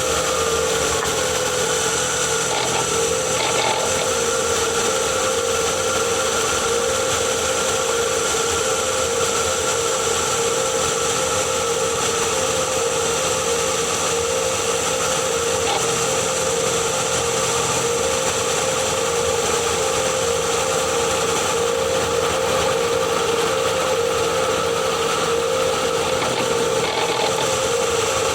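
Ford Kuga PHEV's HF45 e-CVT transmission running, picked up close to the gearbox casing: a steady whine made of several fixed tones over a mechanical hum. This is the weird rotational noise that appeared after a flywheel change, which the owner suspects comes from motor generator 1.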